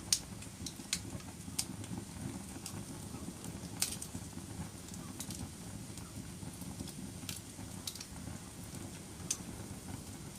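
Wood fire burning in a fireplace: a steady low rumble of flames with irregular sharp crackles and pops, the loudest just after the start and again about four seconds in.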